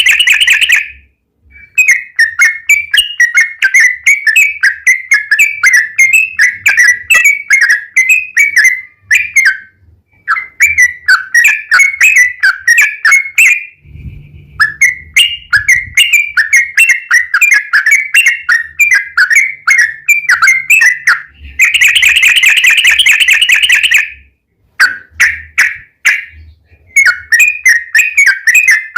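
Yellow-vented bulbul (trucukan) singing long runs of rapid, bubbly chirps, broken by a few short pauses, with a dense buzzy chatter at the start and again about 22 seconds in.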